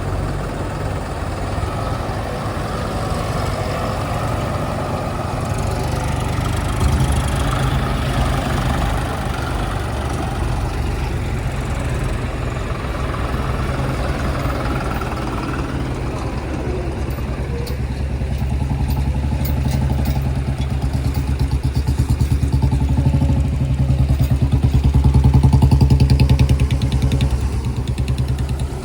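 Heavy diesel engine of earth-moving machinery running steadily, labouring louder in the second half and easing off near the end.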